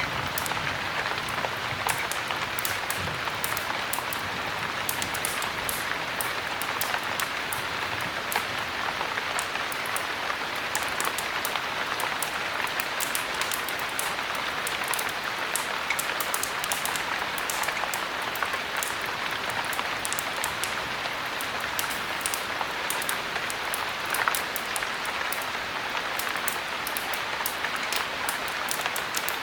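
Steady heavy rain, with many short sharp crackles of a wood fire scattered over it.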